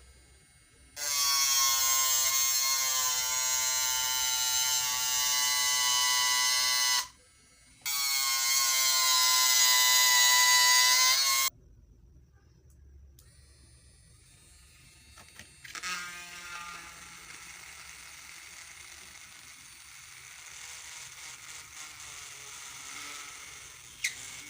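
Jadever 18-volt cordless mini grinder's motor running with a steady high whine for about six seconds, stopping briefly, then running again for about four seconds. A much quieter steady whirr follows later, with a couple of clicks near the end.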